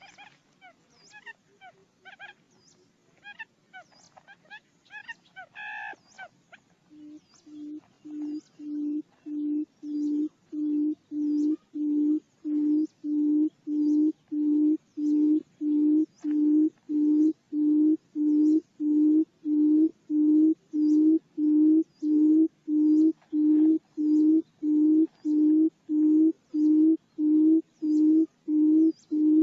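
Buttonquail lure call. After some quieter scattered chirps and clicks, a loud, low hooting note starts about seven seconds in and repeats evenly about one and a half times a second, as used to call birds into a trap.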